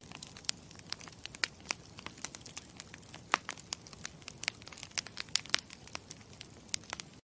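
Campfire crackling: wood burning with a steady low hiss and frequent irregular sharp pops and snaps, cutting off abruptly at both ends.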